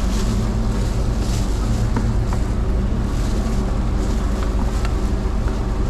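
A steady low mechanical hum, like a motor or engine running, with a few faint sharp taps over it.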